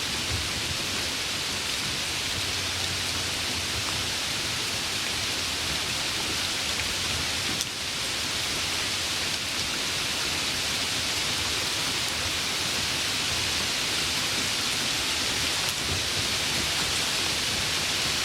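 Heavy rain falling steadily, a dense even hiss, with a faint low rumble in the first few seconds.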